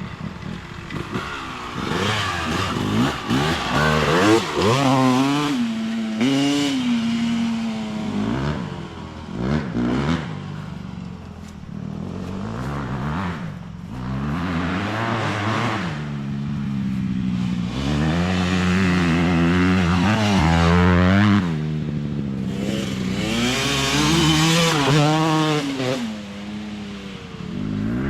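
Dirt bike engine running hard as it is ridden, its pitch rising and falling again and again through the revs.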